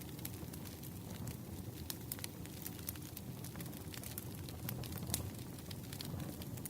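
Campfire burning: a steady low rumble of flames with irregular sharp crackles and pops of wood.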